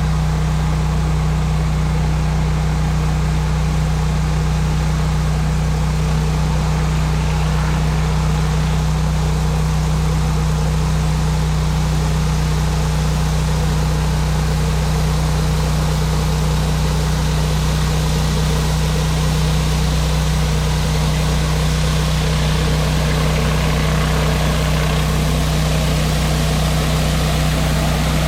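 Gas-engine pressure washer running steadily at a constant speed, a loud unchanging engine hum with a steady hiss of high-pressure water spray on concrete over it.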